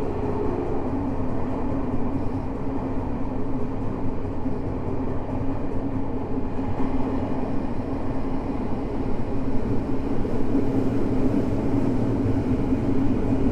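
Tokyo Metro 05 series subway car with Mitsubishi IGBT-VVVF drive running between stations, heard from inside the car: steady wheel-on-rail rumble under a constant motor hum. A higher tone fades out about half a second in.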